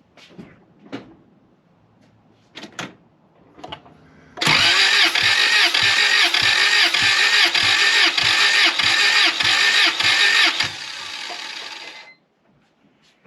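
A few handling clicks, then a starter motor cranking a Honda H-series four-cylinder for about six seconds without it firing, with a steady load pulse about twice a second, before winding down and stopping. The engine is being cranked with a compression gauge fitted; it has no spark.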